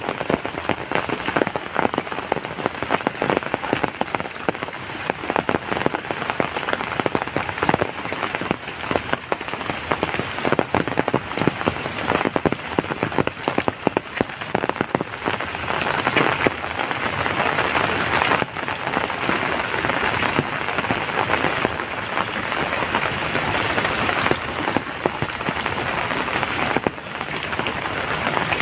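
Heavy rain falling steadily, with a dense patter of many drops striking surfaces.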